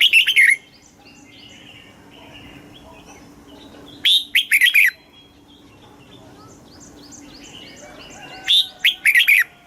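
Red-whiskered bulbul singing short, loud phrases of quick whistled notes, three phrases about four seconds apart, with fainter chirping between them.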